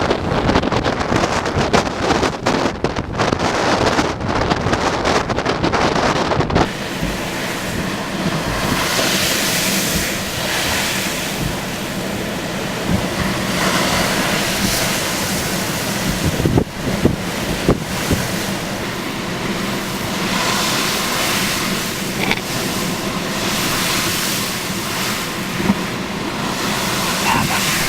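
Violent wind buffeting the microphone over waves breaking on the shore: a loud, continuous rush. It is choppy for the first several seconds, then steadier, with gusts swelling and fading.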